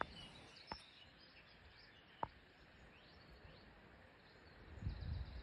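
Faint distant birdsong: short, thin chirps over a quiet outdoor background. Two sharp clicks, about a second and a half apart, and a low rumble rising near the end.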